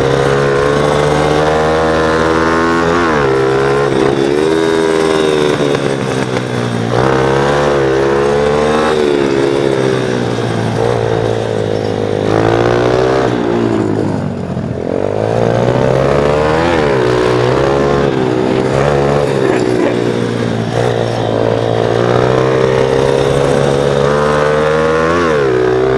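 Viar mini moto's small engine revving up and dropping back again and again as it is ridden hard through corners. About halfway through the throttle comes right off and the engine falls to low revs before it pulls up again.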